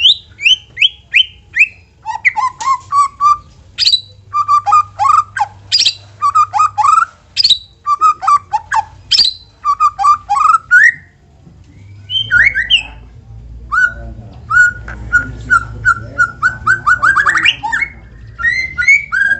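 White-rumped shama (murai batu) singing a fast, varied song of whistled notes, chirps and upward-sliding phrases, with a quick rising trill near the end.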